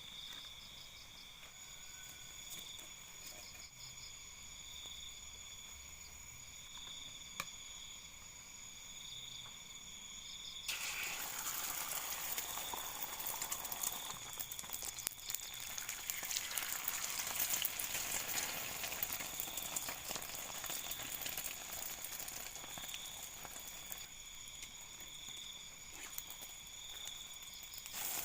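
Food sizzling and crackling in a pan over a campfire, starting suddenly about ten seconds in. Underneath, night insects keep up a steady pulsing high chirp.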